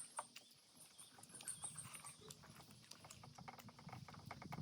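Faint chewing and mouth clicks of someone eating momo dumplings, a quick irregular run of small smacks.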